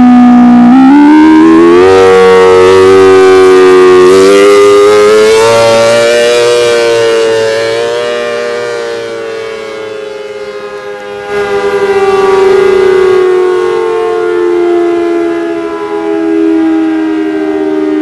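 ACA Hurricane electromechanical siren sounding loudly: it winds up in pitch over the first six seconds or so, then slowly winds down, its loudness fading and swelling again twice.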